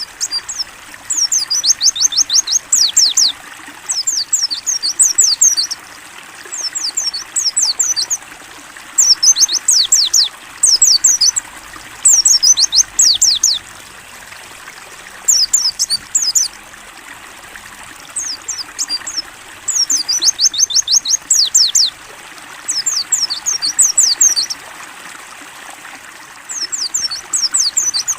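White-eye (pleci) singing in short bursts of rapid, high, falling notes, about a dozen phrases of a second or two each. A steady trickle of running water continues underneath.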